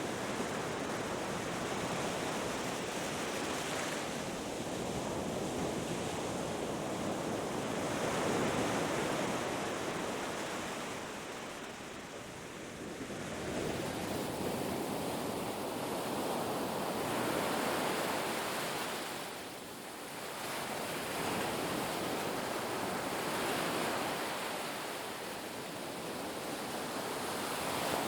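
Ocean surf washing onto a beach: a continuous rush of breaking waves that swells and ebbs in slow cycles, with brief lulls about twelve and twenty seconds in.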